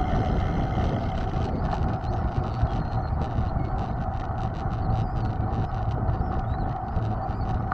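Mountain bike on the move: wind on the microphone and a steady low rumble with a steady hum, joined about a second and a half in by a run of light, irregular ticks.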